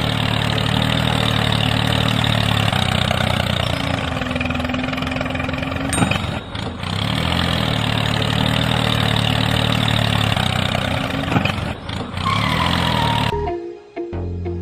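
A small engine or motor running steadily, with brief dips about six and twelve seconds in; it cuts off abruptly near the end.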